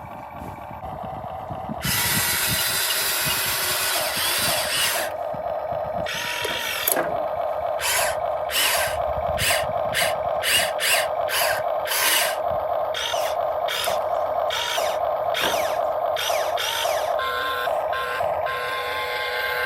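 Huina 1592 RC excavator's small electric motors and gearboxes whirring, starting and stopping in quick short spells, about two a second for a stretch in the middle.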